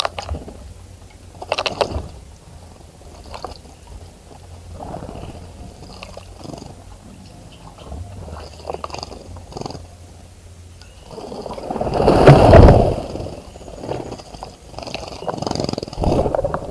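A bird bathing in a bird bath: irregular bursts of wing-fluttering and splashing. The longest and loudest flurry comes about twelve seconds in.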